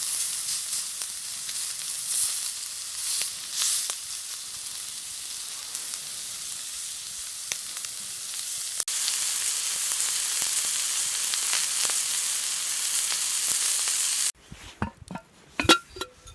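Meat sizzling on an iron griddle over a campfire: a steady hiss with scattered pops. Near the end the sizzle stops abruptly, and a few sharp clicks and knocks follow.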